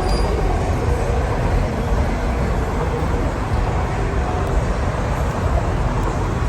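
Steady low rumble of vehicle or road traffic noise, with no distinct events.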